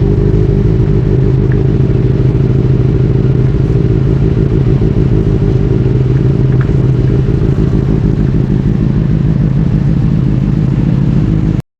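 Motorcycle engine running steadily at an even speed, with no revving. It cuts off abruptly near the end.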